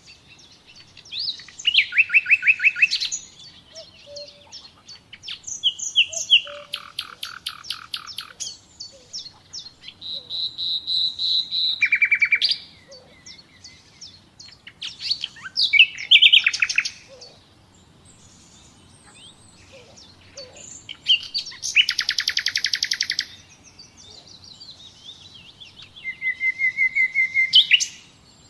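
Nightingale singing in a run of separate phrases a few seconds apart. Each phrase is a fast series of repeated notes: rattling trills, chopped lower notes, and once a held whistled note that swells in loudness.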